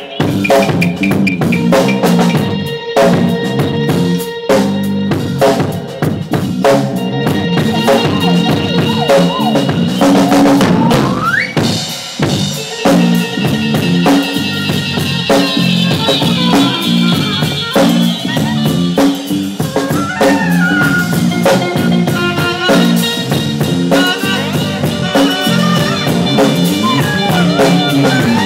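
A live jam band playing an instrumental passage, the drum kit driving it with bass drum and snare under sustained pitched instruments. About eleven seconds in, one note glides upward.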